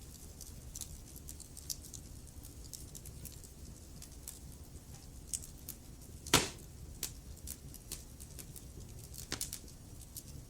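Wood fire burning in a fireplace: a low steady rumble with scattered sharp crackles, and one loud pop about six seconds in.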